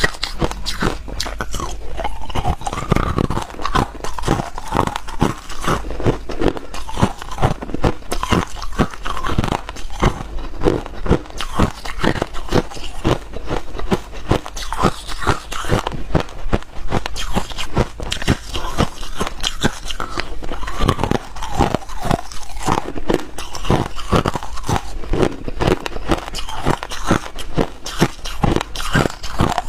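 Ice being bitten and chewed: a steady run of crisp crunches and cracks, several a second, close to the mouth.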